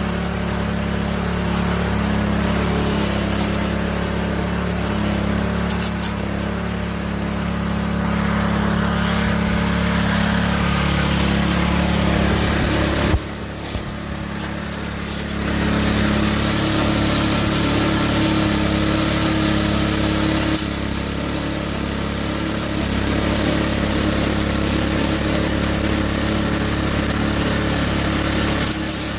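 Small gasoline engine of a power rake (dethatcher) running steadily after a cold start, running smoothly. About halfway through there is a sharp click and the sound drops back for a couple of seconds before the steady running returns.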